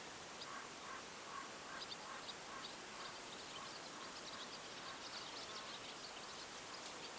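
Faint, repeated short animal calls, about two to three a second, over a quiet background hiss.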